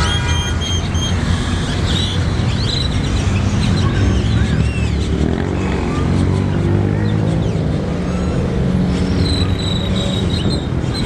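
A flock of small birds chirping and chattering as they return to roost at dusk, many short calls and whistles overlapping, over a steady low rumble of city traffic that is the loudest part.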